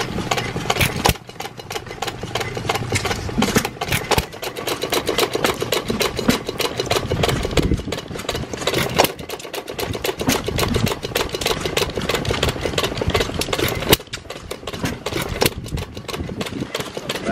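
Hit-and-miss stationary engine running: a fast, even mechanical clatter with sharper pops each time it fires. The governor lets it fire only at or below its set speed and coast without firing in between.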